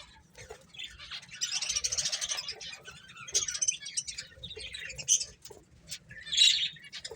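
Pet finches chirping: a dense run of quick high chatter about a second in, then scattered short calls and a louder call near the end.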